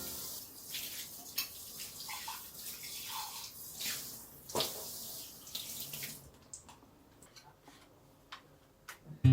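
Water running from a tap into a sink, with small splashes and clicks, stopping about six seconds in; a few light knocks follow.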